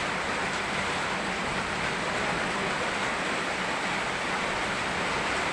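Rain falling together with a rushing river, a steady, even hiss of water.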